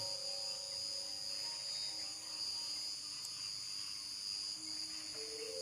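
Crickets and other night insects chirping in a steady chorus, with faint long-held low tones underneath.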